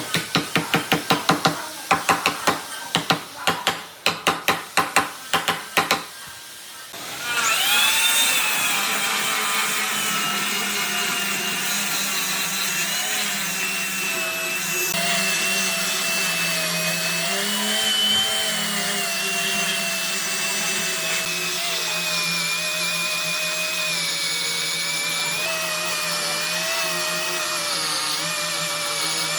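A rapid run of sharp knocks, about four to five a second, for the first six seconds, like wood being struck. About seven seconds in, an electric power tool starts up with a rising whine and then runs steadily, its pitch wavering slightly as it works the wood.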